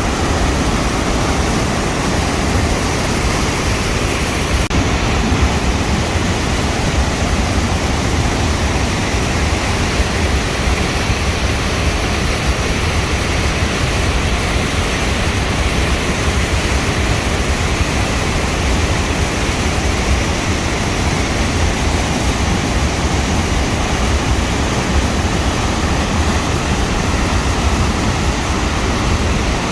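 A flooded waterfall and river rushing high, a loud, steady, unbroken noise of running water.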